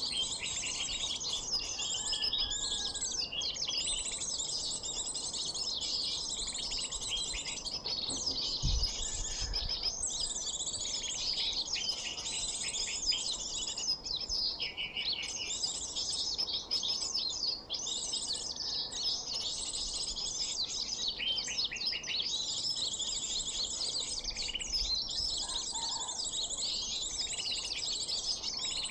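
Dense, continuous high-pitched chirping and twittering of small birds, a sunbird call recording played as a bird lure. There is a single low thump about nine seconds in.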